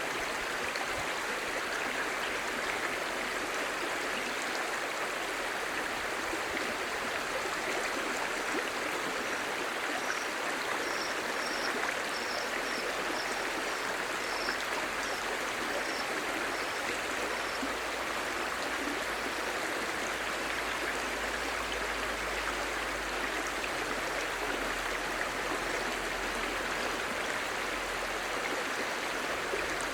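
Clear stream babbling: a steady, even rush of flowing water, with a run of short high chirps in the middle.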